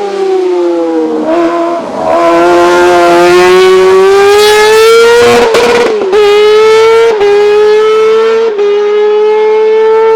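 Hillclimb race car's engine at high revs, pulling hard with its pitch climbing steadily, broken by quick upshifts about a second in, near the middle, and twice more in the last few seconds.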